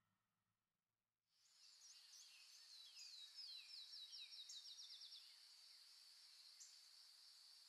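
Faint birdsong fading in after about a second of near silence: many short high chirps, with a fast run of repeated falling notes in the middle, over a light steady hiss.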